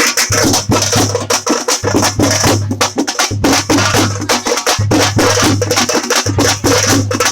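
Tamate frame drums beaten with sticks: rapid, dense strokes in a driving rhythm, with a low boom that recurs in a repeating pattern about every second and a half.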